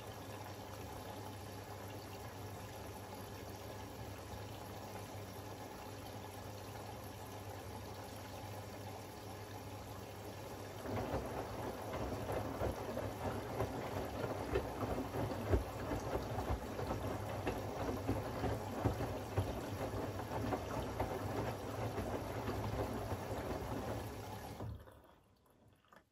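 Siemens iQ700 WG56B2090 front-loading washing machine in its wash cycle: water running steadily in the drum, then about ten seconds in a louder, uneven sloshing and splashing of water and wet laundry as the drum turns. It stops suddenly shortly before the end.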